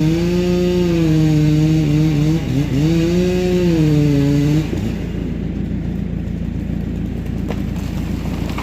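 An engine running with its pitch rising and falling, which cuts out about four and a half seconds in, leaving a steady low rumble.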